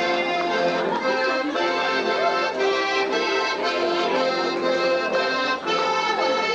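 Accordion playing a folk-style tune, with several notes sounding together and the melody moving in short held notes.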